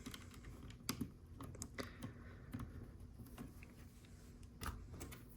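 Faint, scattered clicks and taps of small plastic Lego pieces being handled.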